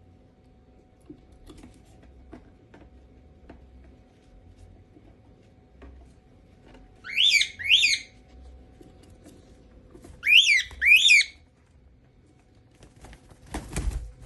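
A cockatiel whistling two pairs of short two-note calls, a few seconds apart, over scattered light clicks. A brief rustling burst follows near the end.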